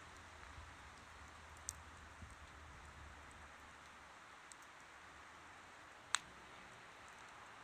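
Wood campfire burning with a soft steady hiss and a few sharp crackles, the loudest pop about six seconds in.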